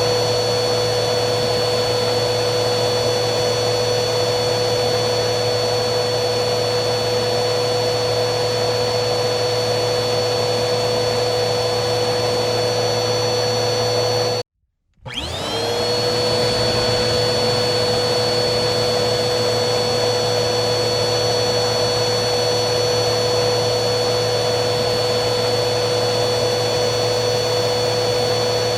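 Vacuum cleaner motor running steadily with a high whine over a rushing airflow noise. About halfway through it cuts out abruptly for half a second, then comes back with the whine rising in pitch as the motor spins up to speed, and it runs steadily again.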